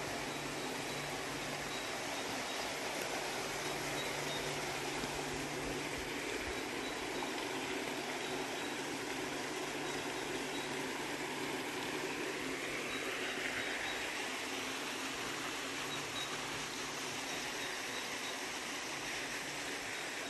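Steady outdoor ambience: an even hiss, with a low hum that is strongest for the first few seconds and then fades in and out.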